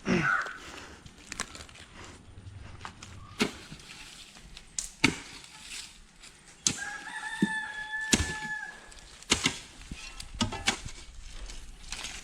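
A rooster crowing once, a long held call near the middle. Scattered sharp knocks sound throughout, the loudest about five seconds in.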